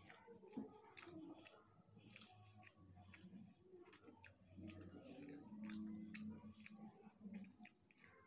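Faint, close-miked chewing of a mouthful of fried rice eaten by hand, with many small wet mouth clicks.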